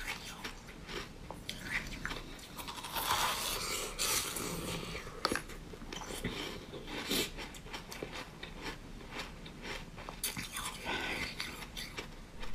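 A person biting into and chewing a crunchy, frosty white-and-blue food item: a run of small crunches, with several louder bites scattered through.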